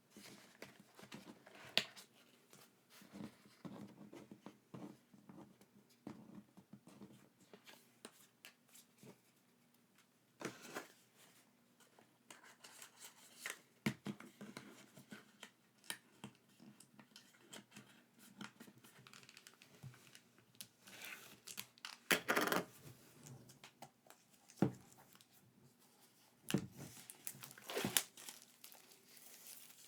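Packaging being handled and torn open: irregular crinkling, rustling and light tapping, with a longer tear about two-thirds of the way through.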